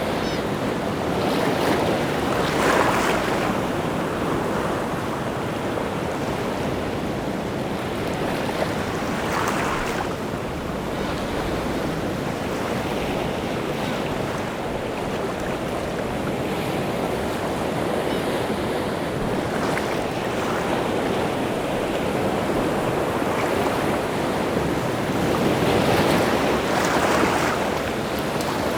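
Rough sea surf: waves breaking and washing against the shore, a continuous rushing with louder surges about 2 seconds in, around 9 seconds, and a longer one near the end. Wind is mixed in.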